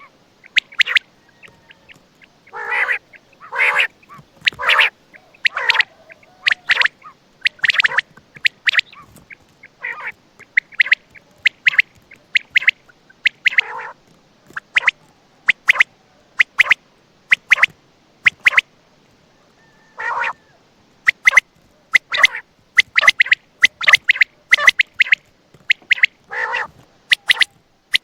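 Quail (batair) calling: short, sharp notes repeated in quick groups, separated by brief pauses.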